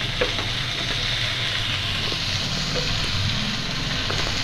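Onions, green peas and freshly added chopped tomato sizzling in hot oil in a frying pan: a steady frying hiss with a few faint pops.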